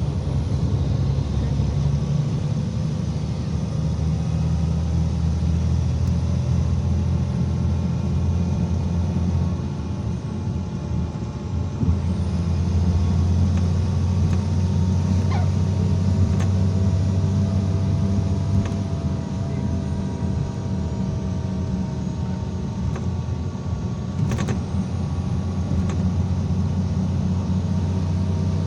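IVECO Crossway 13M PRO city bus under way, heard from inside: a steady low rumble of the diesel engine and road, with a faint steady whine and a few brief clicks or rattles, the sharpest about 24 seconds in.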